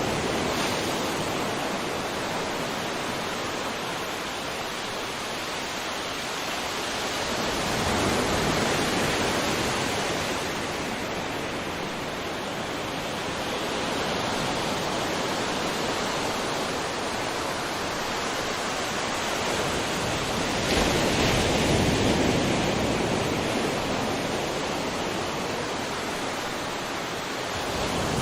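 Ocean surf: a continuous wash of breaking waves, swelling and easing every several seconds, the strongest surge about three quarters of the way through.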